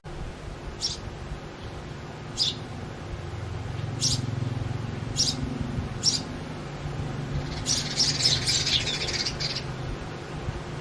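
House sparrows chirping: single short chirps roughly once a second, then a quick run of rapid chirping near the end, over a steady low hum.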